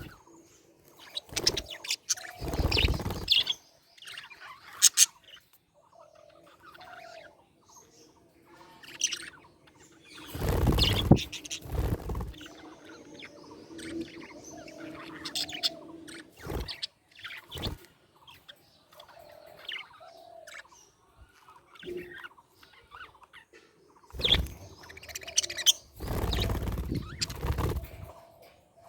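Budgerigars chirping and chattering in many short, high calls throughout. A few louder noisy bursts cut in, the longest about ten to twelve seconds in and again near the end.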